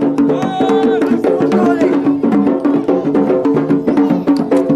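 Yemeni wedding drums, tabl and mirfa', beating a fast, dense rhythm, with a wavering melody over the beat.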